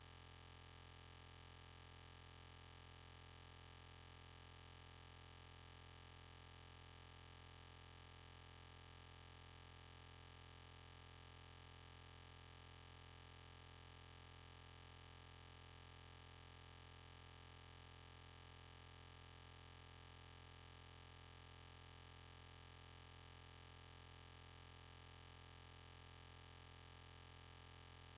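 Near silence: a faint, steady low hum with no other sound.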